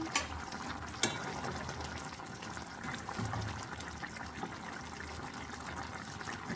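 Water running or pouring steadily, with two sharp clicks in the first second.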